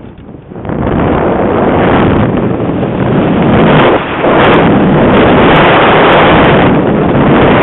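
Strong gusty wind buffeting the microphone: a loud, even rushing noise that drops away briefly at the start, then surges back and holds, with a short dip about halfway through.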